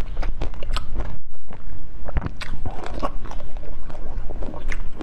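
Close-miked chewing and crunching of a bitten frozen treat, with many small irregular crackles. There is a brief pause about a second in.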